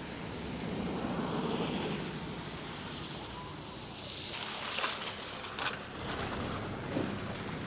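Steady rushing outdoor noise of wind, with a few brief clicks.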